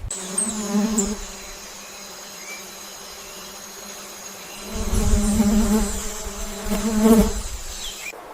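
A flying insect buzzing, a steady drone that swells louder in the first second and again from about five to seven seconds in, as if it passes close.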